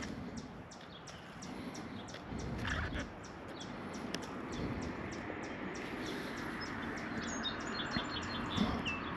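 Steady rushing outdoor background noise, with a bird giving several short chirps near the end.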